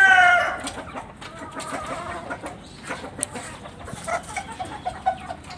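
A pet lory (nuri parrot) calling: a loud pitched call that slides downward and ends about half a second in, followed by soft scattered clicks and a few brief short calls later on.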